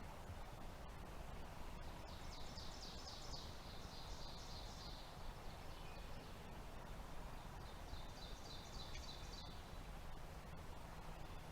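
A small songbird singing a rapid high trill twice, the first lasting about three seconds and the second shorter, over faint steady outdoor background noise.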